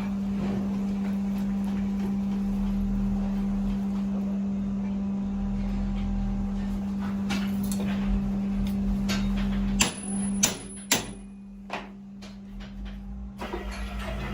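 A steady low hum, with several sharp knocks between about seven and eleven seconds in. The hum cuts off suddenly about ten seconds in.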